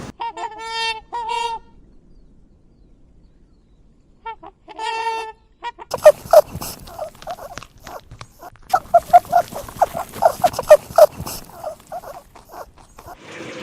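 Bird calls: two short calls near the start and another about four seconds in, then a fast run of many short calls from about six seconds in.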